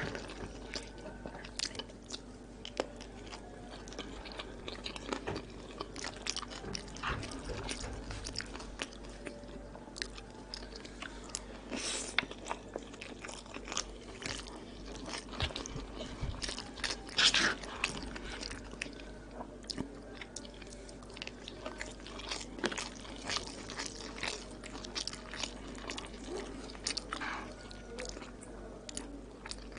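Chewing and biting a mouthful of koshari, with irregular crunching and crackling mouth sounds, loudest about twelve and seventeen seconds in.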